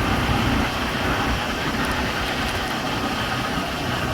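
Steady engine-like drone with outdoor background noise, easing slightly about a second in.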